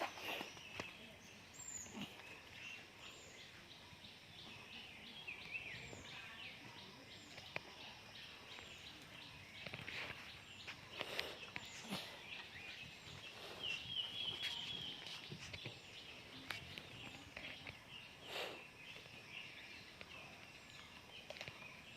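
Faint outdoor ambience with small birds chirping now and then, including a quick run of chirps about 14 seconds in, and scattered soft clicks.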